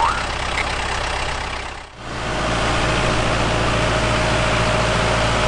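Dubbed-in sound effect of a heavy truck engine idling steadily: a low drone with a steady hum over it, which comes in after a brief dip about two seconds in. Before that, a noisier engine-like hiss plays.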